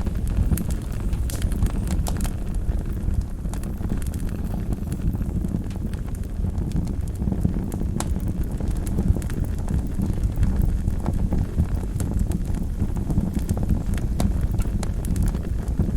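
Wood fire burning in a fireplace: a steady low rumble of the flames with sharp, irregular crackles and pops scattered throughout.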